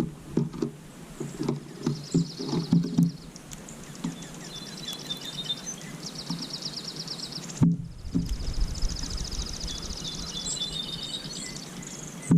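A songbird singing, its song a rapid high trill of evenly repeated notes, given several times in runs of one to two seconds. Low knocks and thumps sound during the first three seconds.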